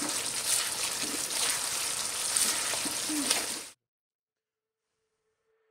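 Food sizzling in hot oil in a pan, a steady hiss with a few sharp clicks. It cuts off abruptly about two-thirds of the way through, leaving silence.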